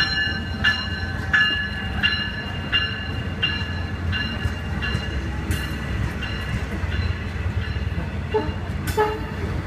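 Long Island Rail Road train pulling out, a steady low rumble, with a bell striking about every 0.7 seconds and growing fainter. A sharper knock comes near the end.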